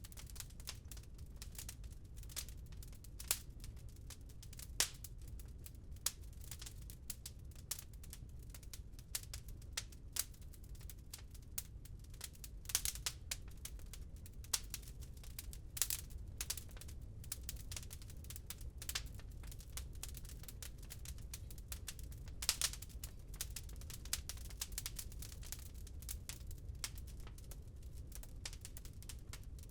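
Wood fire crackling in a fireplace, with irregular sharp pops, a few louder than the rest, over a steady low rumble.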